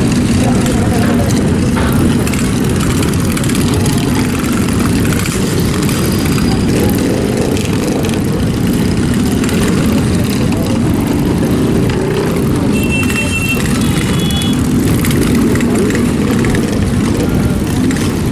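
Steady low rumble of engines running, with two brief faint high tones about two-thirds of the way in.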